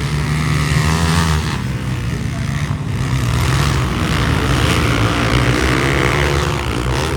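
Motocross bike engine running hard, its pitch rising and falling as the throttle is worked.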